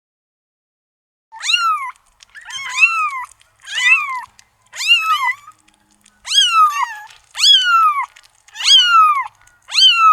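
Cat meowing repeatedly in a high voice, eight meows about a second apart, each rising then falling in pitch, starting about a second in.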